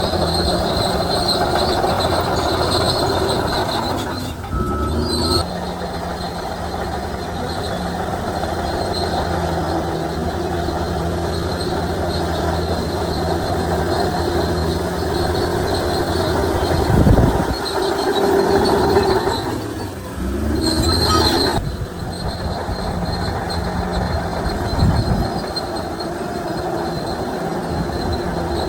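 Shantui DH17C3 crawler bulldozer working: its diesel engine runs steadily under load while its steel tracks squeal and clank. The engine note dips and climbs back twice, and two heavy thuds come in the second half.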